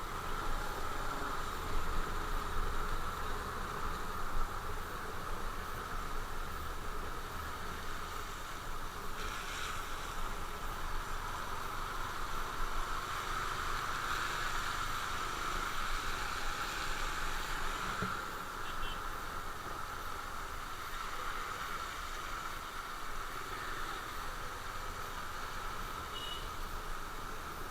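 Motorcycle running steadily along the road, its engine drone mixed with constant wind and road noise on the microphone.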